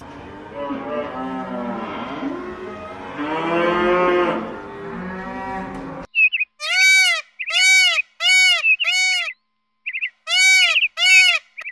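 A herd of humped zebu cattle mooing, several calls overlapping. About six seconds in, this gives way to a peacock calling: a string of short, loud, arching calls in two bursts.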